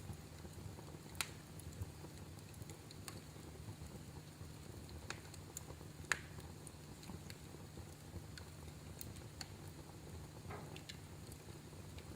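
Wood fire crackling in a fireplace: scattered sharp pops and snaps over a low, steady rumble of burning, with two louder pops about a second in and about six seconds in.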